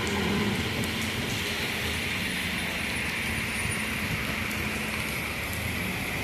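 New York City Subway train running on the elevated line, a steady rumble with a low hum and a faint high whine partway through.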